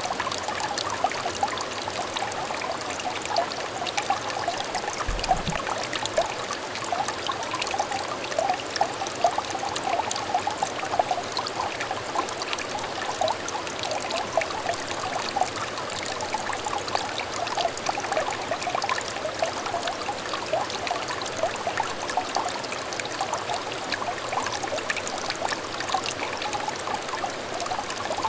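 Shallow clear stream trickling steadily, a dense patter of small splashes and burbles.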